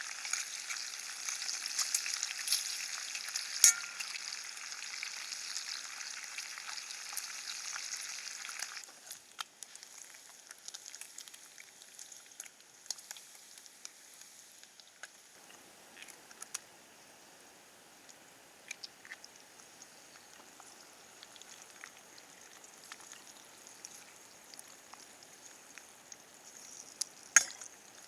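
Bacon and eggs sizzling in a frying pan over a campfire. The sizzle is loud at first, then drops sharply about nine seconds in to a faint sizzle with scattered crackles and ticks. A sharp click comes near the start and another near the end.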